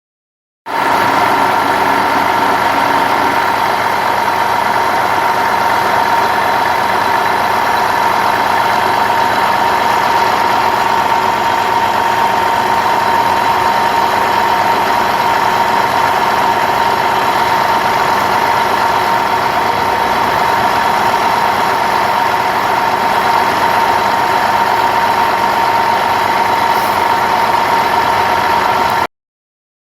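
Engine of a road construction machine running steadily at a constant speed, with a strong steady whine. It starts and cuts off abruptly.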